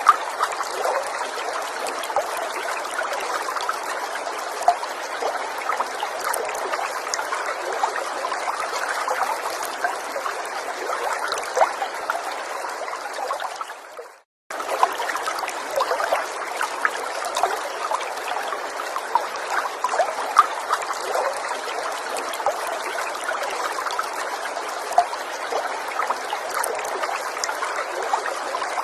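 Small forest stream trickling and bubbling steadily, with many small droplet splashes. About halfway through it fades and drops out for a moment, then comes straight back.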